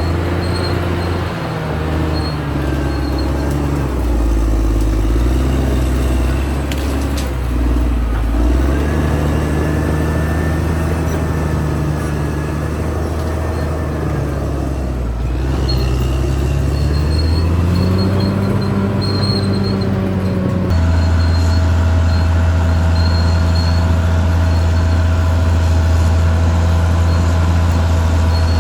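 Caterpillar D6R XL bulldozer's diesel engine working, its note rising and falling with changing load. About two-thirds of the way through the sound changes abruptly to a steady, slightly louder engine note.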